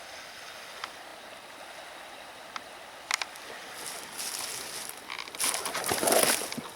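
Nodya log fire crackling and hissing, with a few sharp pops at about one and three seconds in, and a louder rush of crackling from about five seconds.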